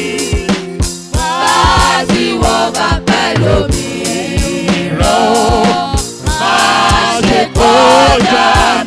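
Gospel praise music: a choir of voices singing over a band with a steady drum beat.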